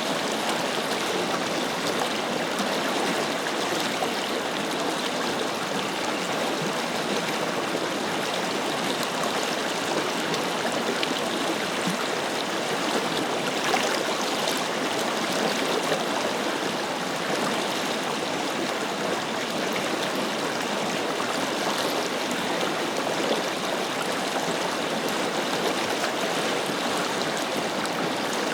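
Forest river flowing, a steady rushing and splashing of water over its bed.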